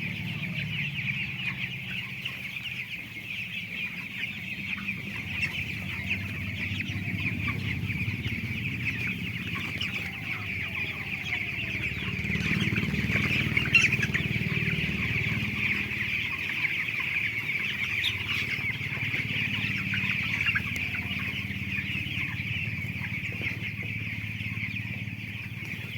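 A large flock of young broiler chickens cheeping and clucking together in a dense, steady chorus.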